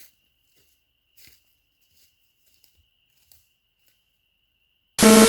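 Quiet dark woods with a faint steady high tone and a few faint rustles. Near the end a sudden, very loud, short burst with a steady pitch breaks in and cuts off abruptly.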